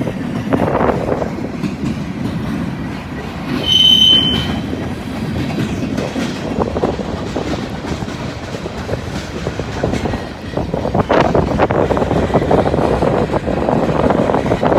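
Freight train cars rolling past, a steady rumble with wheels clacking over the rail joints. About four seconds in, a wheel gives a brief high squeal.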